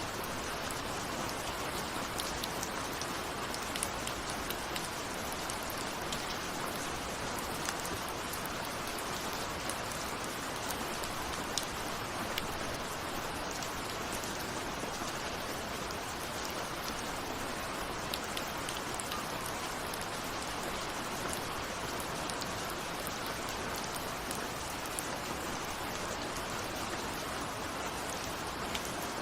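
Steady rain falling, with scattered sharper drop ticks over an even hiss. The uploader presents it as rain on a window.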